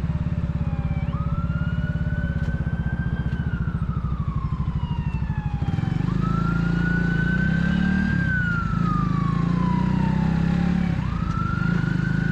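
A siren wailing, rising and falling about every five seconds, over the steady running of an Italika 250Z motorcycle engine.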